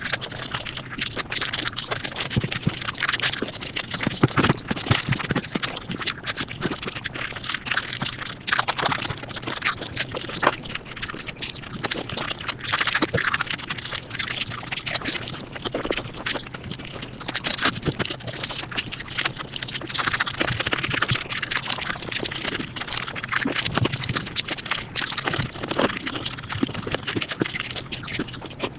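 Mukbang eating sounds sped up five times: a dense, rapid run of chewing, crunching and mouth clicks.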